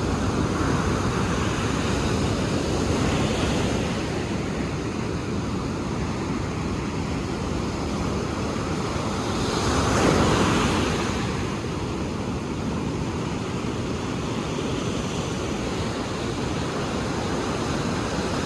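Ocean surf washing ashore in a continuous rush, swelling and falling with each wave; the loudest wave breaks about ten seconds in.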